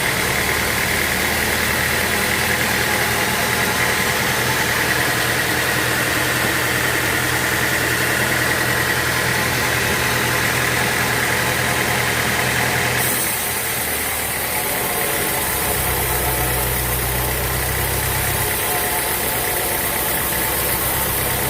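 Sawmill machinery running: a steady engine drone with a continuous high saw noise over it. The sound changes abruptly about thirteen seconds in.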